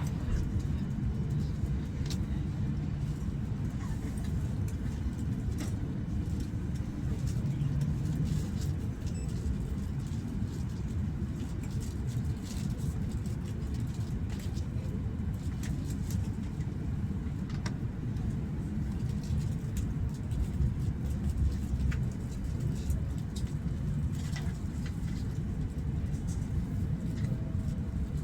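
Inside the cabin of an E8-series Shinkansen train running, with a steady low rumble and occasional light clicks and taps.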